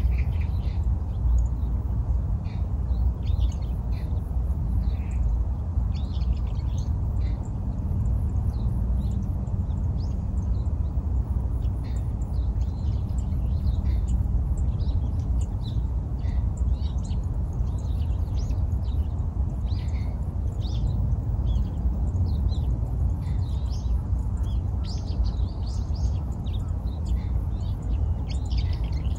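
Many short bird chirps and calls scattered throughout, over a steady low rumble.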